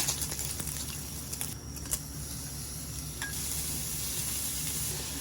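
Food sizzling in a hot frying pan: a steady hiss with scattered faint clicks and pops.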